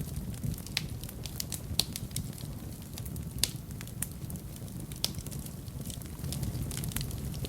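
Wood fire burning in a fireplace: a steady low rumble of the flames with irregular sharp crackles and pops, two louder pops about two and three and a half seconds in.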